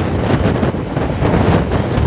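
Passenger train running at speed: steady rumble and rattle of the coach wheels on the rails, with wind buffeting the microphone.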